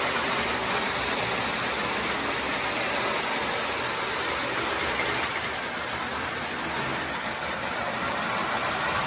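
Two O-gauge toy trains running at once on three-rail O27 track: a steady whir of the electric motors and rumble of wheels on the rails, easing off a little around the middle.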